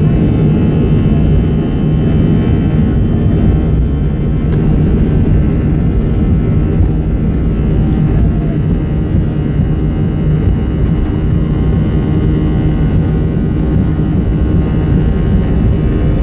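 Airbus A320 cabin noise in flight: the jet engines and airflow make a steady drone with a strong low hum and several steady tones.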